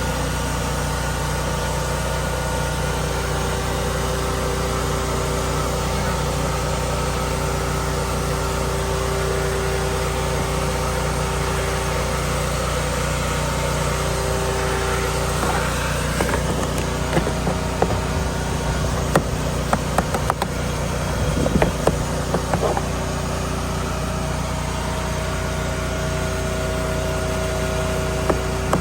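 An engine running steadily at idle, a constant hum with several held tones. In the second half come scattered clicks and knocks.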